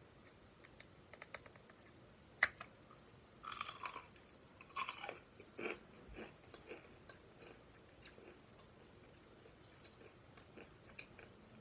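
Person chewing and biting food close to the microphone, with a sharp click about two and a half seconds in and a few louder crunchy bites between about three and a half and six seconds in, then quieter chewing.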